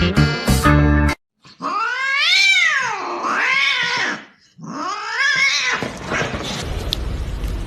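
A cat giving two long, drawn-out yowls, each rising and then falling in pitch, the first longer with a wavering tail. A strummed guitar tune cuts off about a second in, just before the first yowl.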